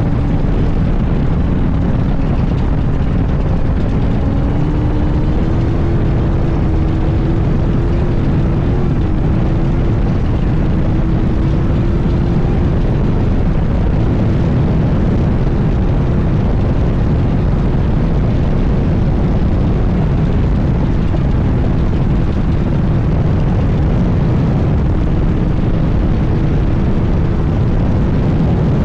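Class 1 all-wheel-drive off-road race car driving at speed: a steady, loud rumble with an engine note that rises slightly in the first few seconds and then holds.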